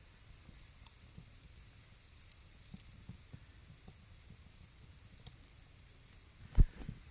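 Wood fire burning in a fireplace: sparse soft crackles and pops over a faint hiss, with one loud, deep thump about six and a half seconds in.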